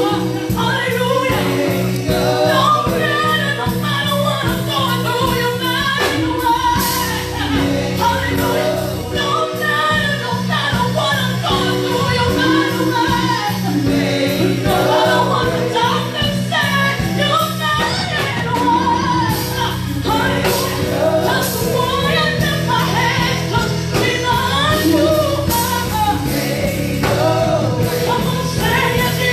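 Gospel worship music: a choir and singers over a band with sustained bass and keyboard chords.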